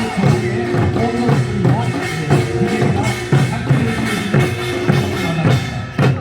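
Korean folk music performance: rhythmic drumming, about two beats a second, under wavering pitched voices. It breaks off just before the end.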